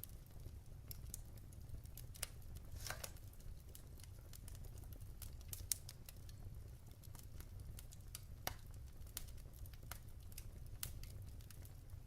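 Wood fire in a fireplace crackling, with irregular sharp pops and snaps of burning logs over a steady low rumble of flame. A brief run of crackling comes about three seconds in, and the loudest single pop comes a little before the middle.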